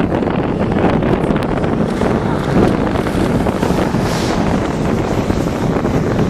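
Strong wind buffeting the microphone in a steady, loud rumble.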